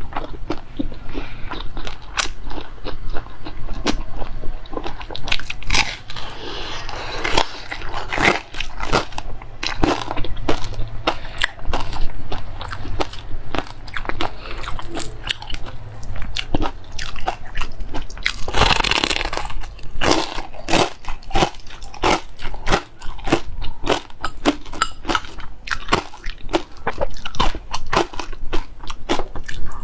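Close-miked eating of fatty pork: steady biting and chewing with crunching and many sharp, wet mouth clicks. A longer, louder noisy burst comes about 19 seconds in.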